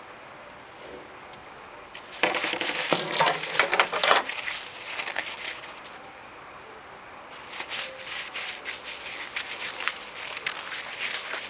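Two stretches of close crackling, crinkling noise, like something being handled near the microphone: the first starts about two seconds in and lasts about two seconds, and the second starts about seven seconds in and runs on.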